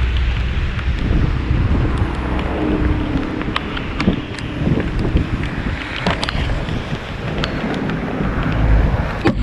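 Wind buffeting the microphone of a moving bicycle, over steady road and traffic noise, with a few small clicks and rattles.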